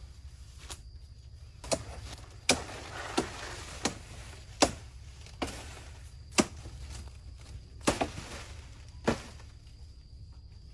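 A run of sharp knocks or chopping blows, about ten at uneven gaps of roughly a second, with a brief rustle after the second blow.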